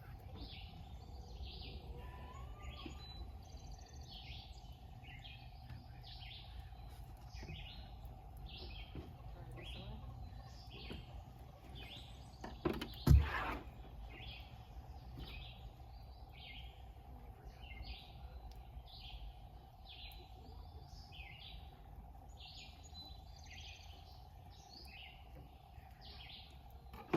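Birds chirping over and over, short high calls more than once a second, over a steady low outdoor rumble. A single sharp knock about 13 seconds in stands out as the loudest sound.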